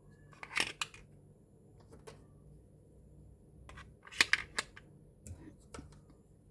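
Small plastic toy kitchen pieces clicking and tapping as they are handled, in short clusters of sharp clicks with the loudest clusters about half a second in and about four seconds in.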